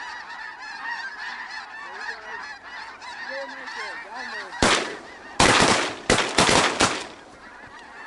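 A large flock of snow geese calling, many birds at once in a dense, yelping chorus. About four and a half seconds in, a quick volley of shotgun blasts from several guns breaks over the calling.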